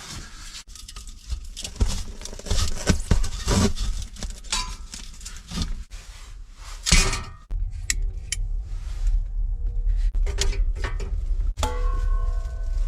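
Clinks, knocks and rustling from handling the metal parts of a homemade heating stove while setting it up, with a louder rushing noise about seven seconds in. A low wind rumble joins from about halfway.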